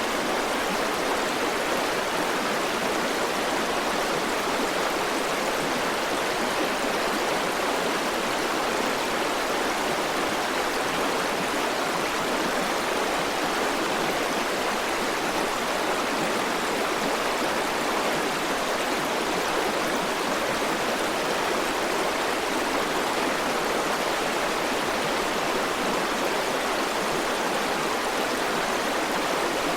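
River water rushing over stones, a steady, unbroken flowing sound with no single splashes standing out.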